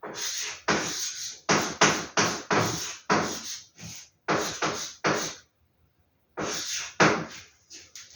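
Poster packaging being handled and unwrapped: a quick run of sharp crinkling rustles, several a second, with a short pause about two-thirds of the way in.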